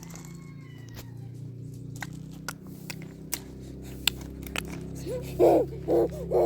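An animal calling repeatedly: a run of short, loud calls about half a second apart, starting about five seconds in. Under it are a steady low hum and scattered light clicks.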